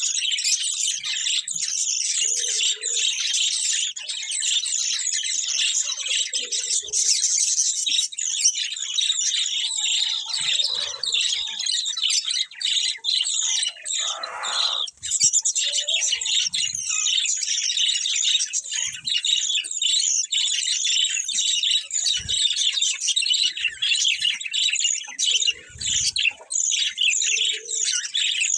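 A group of budgerigars chirping and warbling in constant, dense chatter, with a few soft knocks and a louder, lower call about halfway through.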